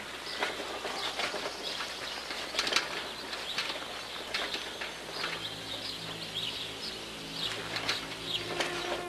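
Birds outdoors, with short sharp chirps and flutters scattered throughout. About five seconds in, a low sustained music chord fades in beneath them.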